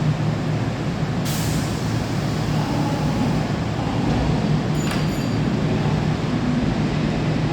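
Kintetsu 2800 series electric train standing at the platform as it prepares to depart, with a steady low hum from its equipment. A short hiss of compressed air from the brakes comes about a second in, and there is a brief click a little past the middle.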